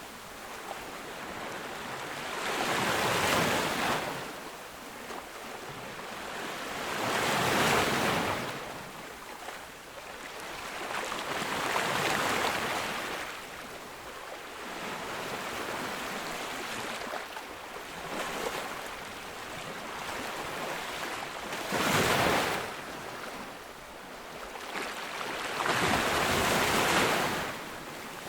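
Ocean waves breaking on a beach, each wave swelling up into a rushing crash and washing back every four to five seconds.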